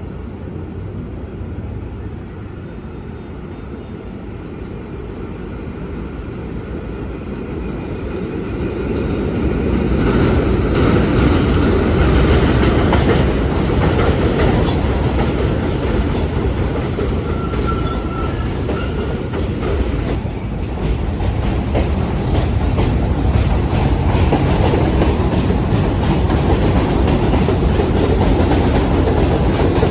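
New York City Subway 1 train running on its track and gathering speed about a third of the way in, its wheels clicking over rail joints under a steady rumble.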